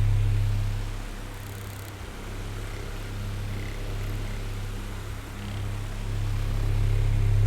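Electric oscillating fan running, a steady low motor hum with a whir of airflow. The sound fades about a second in and swells back near the end as the fan head sweeps away and back.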